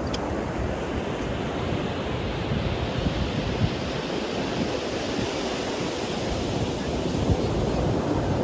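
Ocean surf breaking and washing up the beach, a continuous rush whose hiss swells a couple of seconds in as a wave runs up. Wind rumbles on the microphone underneath.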